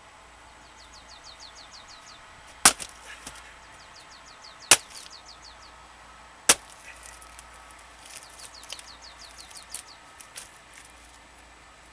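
An axe striking a firewood log: three sharp blows about two seconds apart, then a run of lighter knocks and taps. A bird trills in the background.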